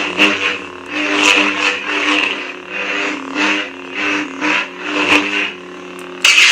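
Electronic lightsaber sound font humming steadily while the blade is swung over and over, each swing bringing a whooshing swell in pitch and loudness. The swings ease off after about five seconds, leaving the plain hum, and a sudden loud burst comes near the end.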